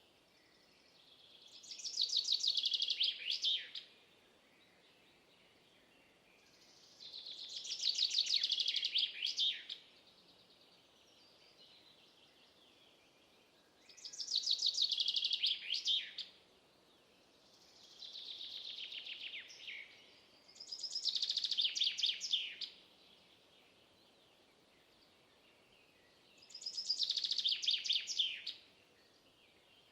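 A songbird singing a short, rapid trilled phrase that ends in a quick flourish, repeated six times about every six seconds, with the fourth phrase quieter. Faint steady background noise lies between the phrases.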